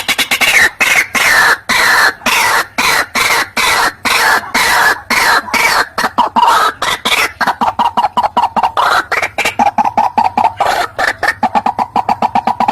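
White-breasted waterhen (ruak-ruak) calling: a rapid, unbroken run of harsh repeated notes, at first each falling in pitch, then from about halfway settling into a steady note repeated at one pitch.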